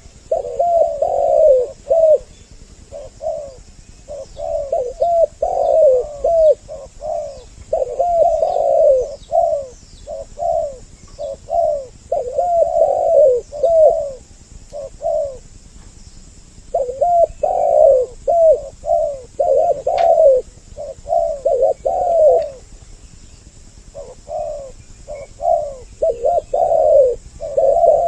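Spotted doves cooing in repeated phrases of curved, falling coos, two voices overlapping, with short pauses between bursts. A single sharp click sounds near the middle.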